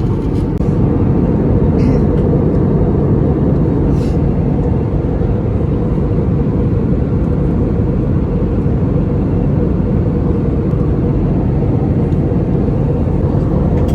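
Airbus A321 cabin noise in flight: a steady, even drone of engines and airflow, heaviest in the low end, with a couple of faint ticks about two and four seconds in.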